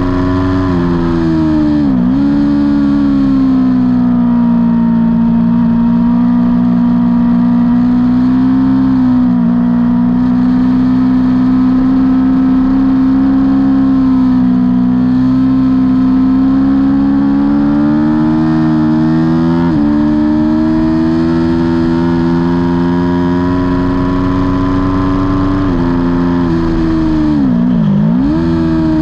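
Aprilia Tuono V4's V4 engine running hard at high revs, heard from on board the bike. The pitch holds high for long stretches with a few short dips, then drops deeper and climbs back up near the end.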